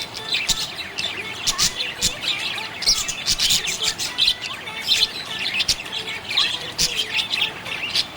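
Budgerigars chirping and chattering: a dense, continuous run of quick, high chirps with sharp squawks mixed in.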